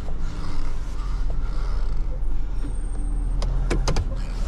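Tow truck's engine running steadily at idle, with a quick run of sharp clicks about three and a half seconds in.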